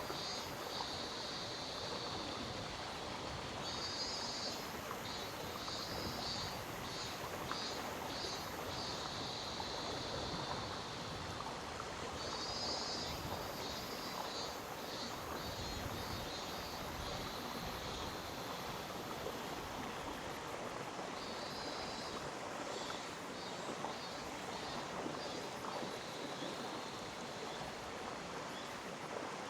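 Mountain stream in a gorge, water rushing steadily over rocks. A high, pulsing chirp comes and goes over it in spells of a few seconds.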